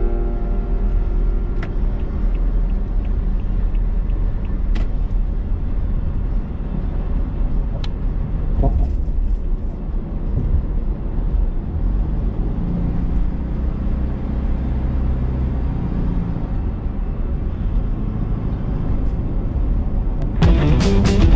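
A heavy vehicle's engine running with a steady low rumble, and a few faint clicks.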